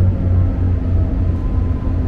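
Inside the carriage of a GWR Turbo diesel multiple unit running at speed: a steady low hum from the underfloor diesel engine and running gear, mixed with the noise of wheels on the rails.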